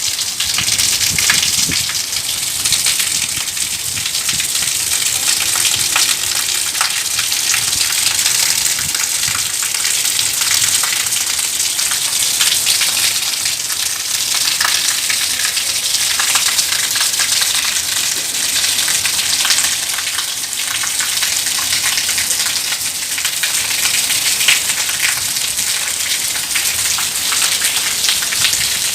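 Steady rain falling, a dense even hiss with many individual drops pattering.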